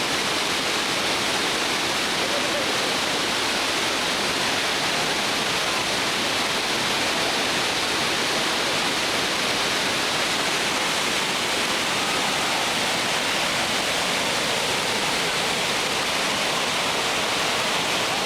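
Whitewater rapids on a river rushing steadily, an even unbroken roar of water.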